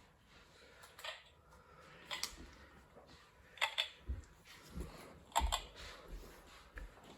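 Irregular light clicks and soft knocks, about eight spread over several seconds, the stronger ones in the second half.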